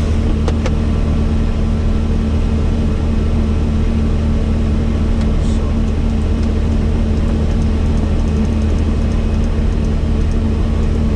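Helicopter in flight: a loud, steady drone of engine and rotor with a constant low hum, unchanging throughout.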